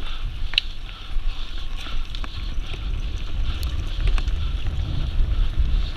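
Wind buffeting the microphone in a steady, uneven rumble, with a hiss above it and a few scattered clicks.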